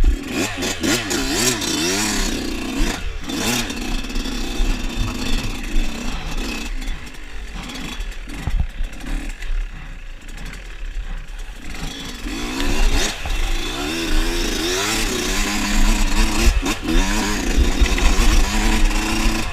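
Dirt bike engine under way on a trail, its pitch rising and falling as the throttle is worked, easing off for a few seconds midway before pulling hard again.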